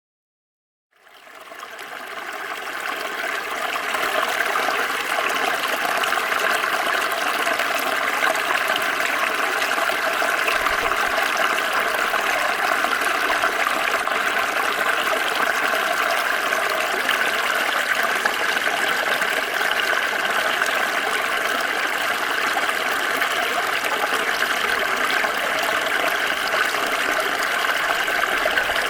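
Small stream flowing steadily over stones, a continuous rushing babble of water. It fades in over the first few seconds, then holds steady.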